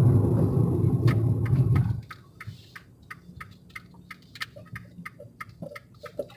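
Fiat 500 Abarth's 1.4-litre turbocharged four-cylinder engine running loudly for about two seconds, then dropping away abruptly. A quiet stretch follows, filled with quick, irregular light clicks at a few per second.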